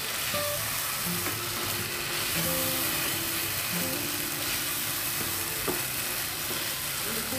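Bata fish and spice paste sizzling in a non-stick karahi while a slotted spatula stirs and turns it, frying the masala and fish down before any water goes in. Soft background music plays under it.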